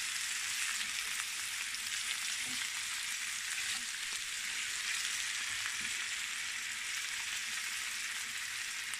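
Sliced raw potatoes sizzling as they fry in a pan, with a steady hiss, turned over now and then with a silicone spatula.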